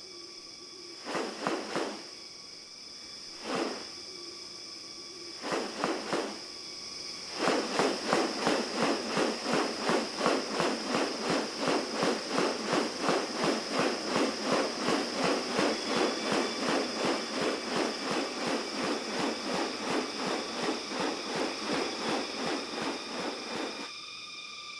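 Rainforest animal sounds: a steady high insect drone, a few short separate calls, then from about seven seconds in a loud rhythmic pulsing call repeating about three times a second, which stops shortly before the end.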